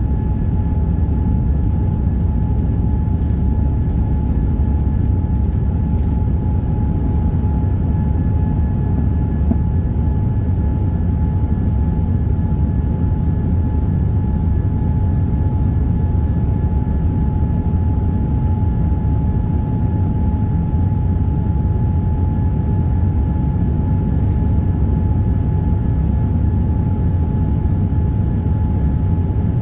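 Boeing 787-9's Rolls-Royce Trent 1000 engines and airflow heard inside the cabin: a steady deep rumble with a steady high whine over it.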